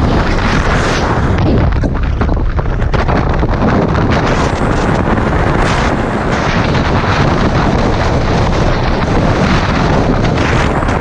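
Strong wind buffeting the microphone during a motorcycle ride in high winds: loud, steady rushing noise with a heavy low rumble.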